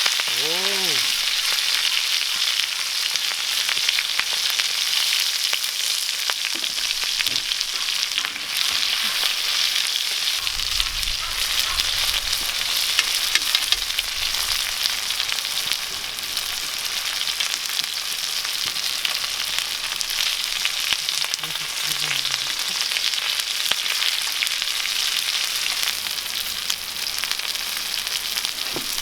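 Beef intestines (gopchang) sizzling and spitting in their fat on a hot griddle, a steady frying hiss with fine crackles.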